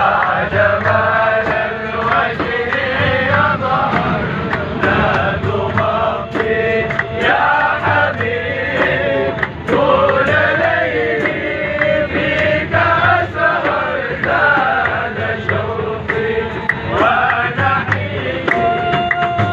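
A group of young men singing together, their voices blending in a chant-like song over a steady rhythmic beat of sharp strikes.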